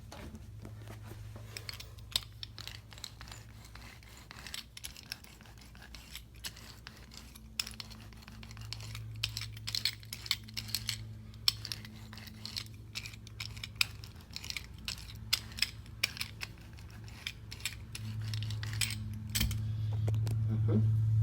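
Hand tools working on carpet for a bonded-insert stain repair: irregular clicks, snips and rustles, over a steady low hum that grows louder near the end.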